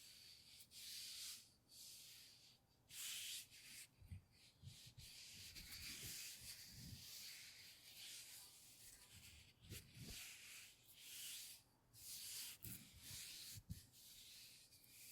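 Quiet, repeated rubbing strokes on a surface, close to the microphone, each stroke a soft hiss lasting under a second, with faint low taps between them from about four seconds in.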